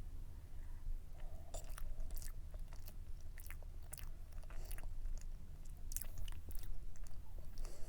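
Close-miked chewing of cake, with wet mouth sounds and many short, sharp clicks throughout.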